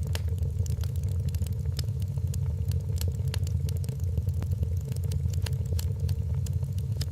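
Wood fire crackling in a fireplace: frequent sharp pops and snaps, irregularly spaced, over a steady low rumble.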